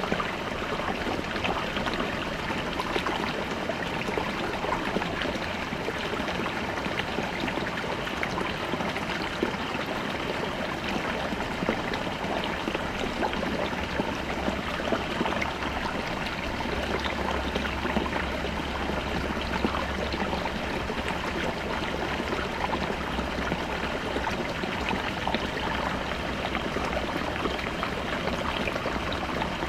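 Small babbling brook flowing over rocks: a steady rush of water with constant small splashes and gurgles.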